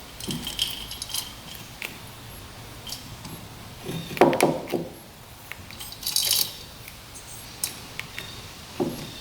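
Small metal engine parts and hand tools clinking and tapping during hands-on engine work, with a louder clatter about four seconds in and a bright metallic jingle around six seconds.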